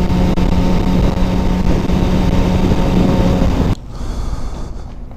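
Motorcycle engine running steadily with a constant hum, then cut off abruptly nearly four seconds in, leaving a much quieter background.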